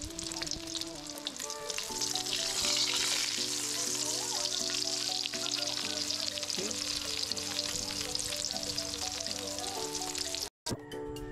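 Squash flower and egg omelette frying in hot oil in a wok: a steady sizzle with fine crackling, louder from about two seconds in. Background music plays underneath, and the sound cuts out briefly near the end.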